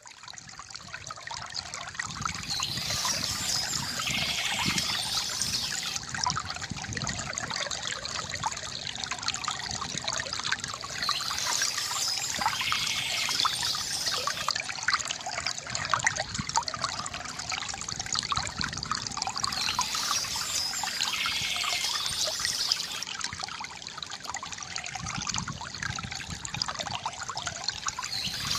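Water from a bamboo fountain trickling and gurgling steadily, fading in over the first two seconds, with a brighter hiss coming back about every eight or nine seconds.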